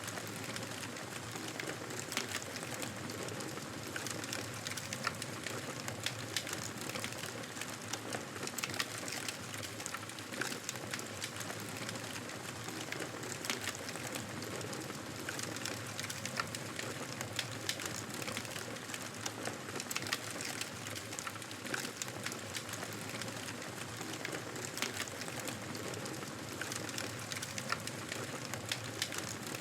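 Wood fire crackling in a fireplace: a steady low hiss with frequent, irregular sharp pops and snaps.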